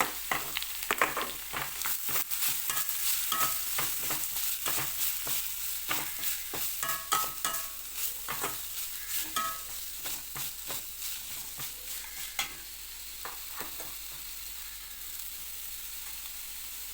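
Grated gooseberry sizzling in hot sesame oil in a pan while a spatula stirs it, scraping and knocking against the pan. The stirring stops about twelve seconds in, leaving a steady sizzle.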